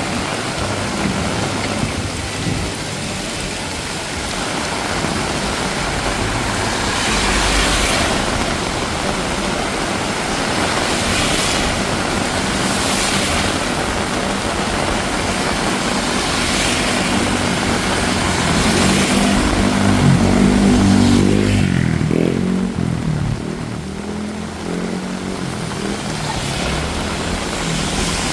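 Heavy rain falling steadily while vehicles pass on a wet street, their tyres swishing by several times. An engine runs past about 18 to 22 seconds in.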